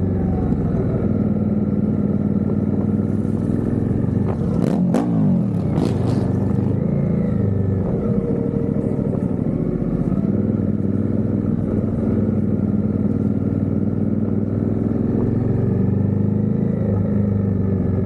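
Suzuki GSX-R motorcycle engine running in traffic, mostly at a steady low speed, with a brief swing in engine pitch about five seconds in.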